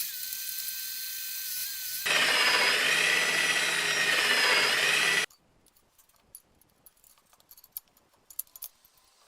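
A high-pitched power tool runs with a steady whine, then gets much louder and harsher about two seconds in as it bites into the work. It cuts off suddenly about five seconds in, leaving only scattered light clicks and taps.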